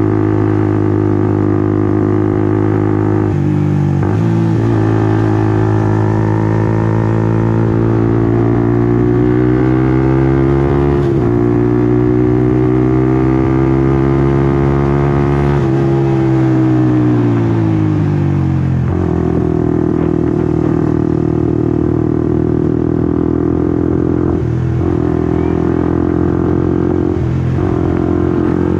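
Honda CBR150R's single-cylinder four-stroke engine running on the move. Its pitch dips briefly about three seconds in and again around eleven seconds, as at gear changes, climbs slowly to about fifteen seconds, then falls away as the bike slows. It settles into a steady lower note with a couple of brief dips near the end.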